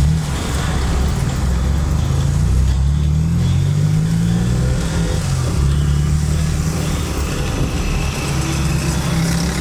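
Car engine and road noise heard from inside the cabin, the engine note rising and falling as the car moves off.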